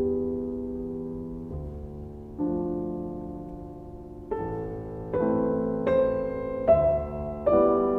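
Slow background piano music: sustained chords struck about once a second and dying away between strikes, growing louder and higher in the second half.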